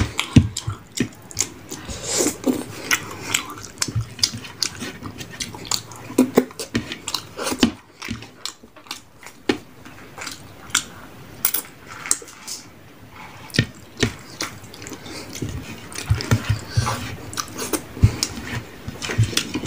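Intermittent wet splashing and squishing with many small clicks, from hands working in a plate of rice and fish curry.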